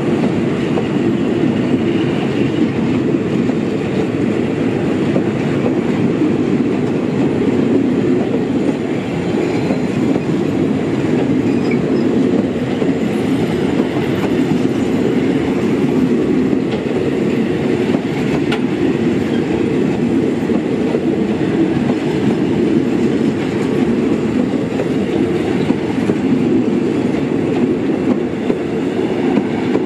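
Train running along the rails: a steady, unbroken rumble of the wheels and carriages.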